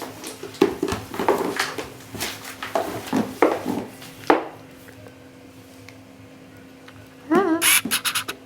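A person voicing a parrot puppet makes a rapid run of parrot-like squawks and chatter for about four seconds. After a pause, a short warbling whistle comes near the end.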